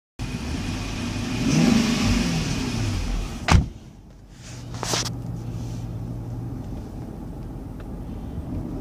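Infiniti V8 started warm from inside the cabin: it fires, the revs flare up and fall back over a couple of seconds, then it settles into a steady idle. A sharp click, the loudest moment, comes about three and a half seconds in, and a second one about a second and a half later.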